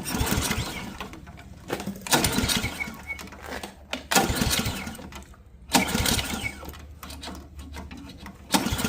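Ariens AX 208 snowblower engine cranked over by its recoil pull-starter about five times, one pull every couple of seconds, each a short whirring surge that dies away. It does not catch: the engine shows spark but will not run, which points to the fuel system and carburettor, stale gas having sat in it.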